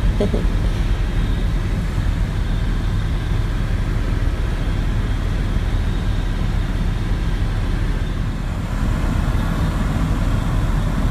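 Helicopter engine and rotor noise heard from inside the cabin in flight: a steady, unbroken drone with most of its weight in the low end.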